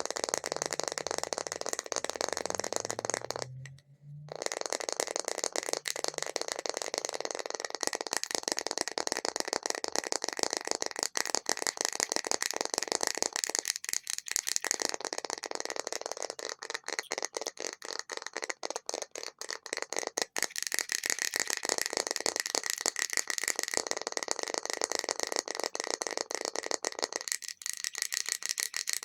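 Extremely fast, continuous tapping on an object, with a short break about four seconds in.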